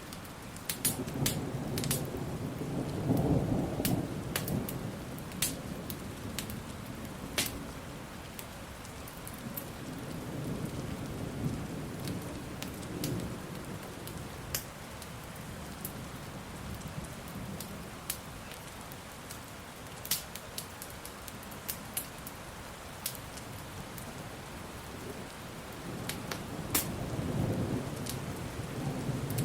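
Steady rain with thunder rolling low: a swell of rumble a few seconds in, weaker rumbling in the middle, and another roll near the end. Scattered sharp pops and crackles of a burning fire sound throughout.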